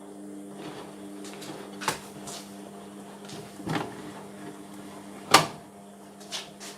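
Indesit washing machine partway through its cotton wash: a steady motor hum with four sharp knocks from the drum, the loudest about five seconds in.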